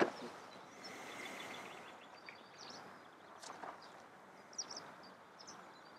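Quiet outdoor ambience with faint, scattered bird chirps and a few light clicks, the sharpest one right at the start.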